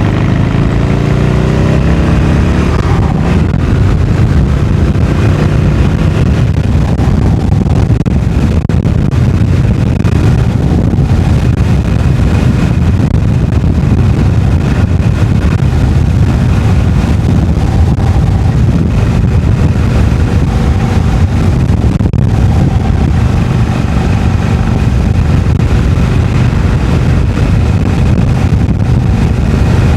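Harley-Davidson Iron 883's air-cooled V-twin with stock exhaust, heard from the rider's position while riding. The engine note rises as the bike accelerates over the first few seconds, then holds steady at cruising speed.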